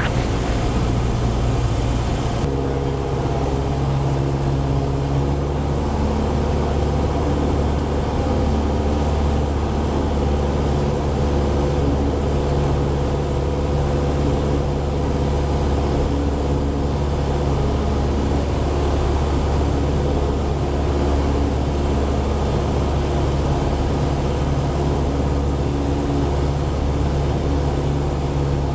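Cessna 172's piston engine and propeller droning steadily inside the cabin during the landing approach. The mix of its tones shifts slightly about two seconds in.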